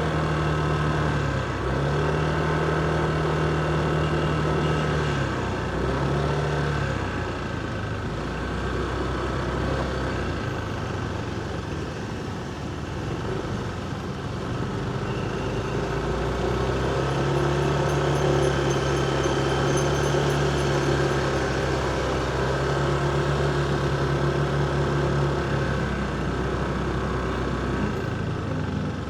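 Motorcycle engine running during a city ride over steady road and traffic noise. The engine note drops out briefly a few times in the first seven seconds, as the throttle is eased and opened, and holds steady again later.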